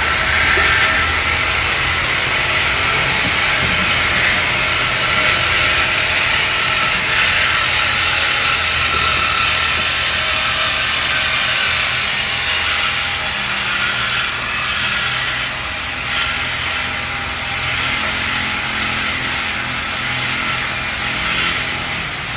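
Power cutting tool running steadily with a hissing, whining grind as it cuts through a car's exhaust pipe to take out the mid muffler.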